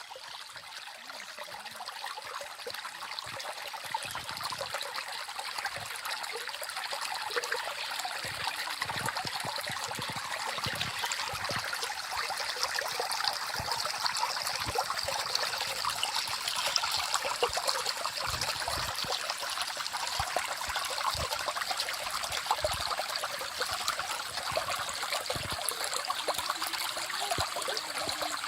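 Small stream running and trickling over rocks, a continuous babbling splash with frequent little droplet sounds and occasional soft low gurgles.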